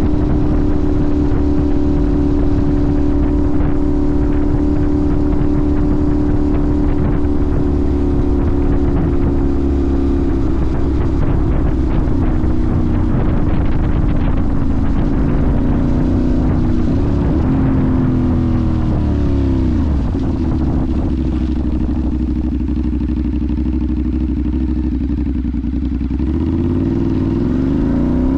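Sportbike engine running at a steady pitch for about the first ten seconds, then rising and falling in pitch several times. It settles lower for a while and climbs again as it accelerates near the end.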